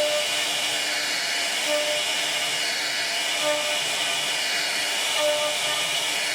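A CNC wood router running: a steady hiss, with a brief low tone that comes back about every second and three-quarters.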